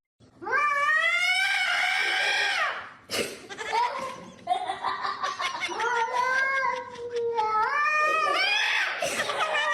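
Domestic cat yowling: two long drawn-out calls, the second wavering and rising in pitch near the end.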